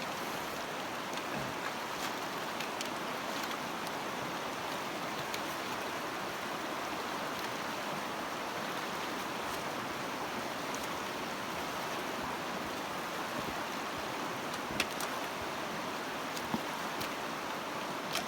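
A fast-flowing river rushing steadily, with a couple of brief sharp clicks near the end.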